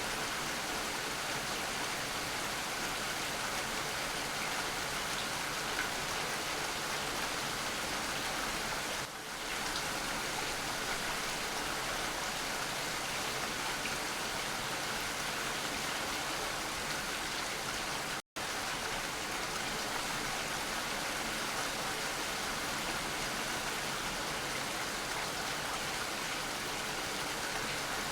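Steady rain falling, an even hiss of many drops. It dips briefly about a third of the way through and cuts out to silence for a split second about two-thirds through.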